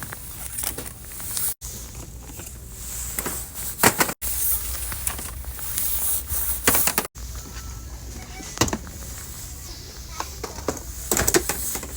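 Indoor store background: a steady low rumble with scattered clicks and clatter and indistinct voices. The sound drops out completely for an instant three times, at edit cuts.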